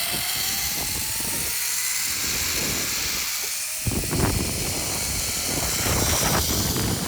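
Wind rushing over the microphone, a steady hiss with low, uneven buffeting that grows much stronger about four seconds in.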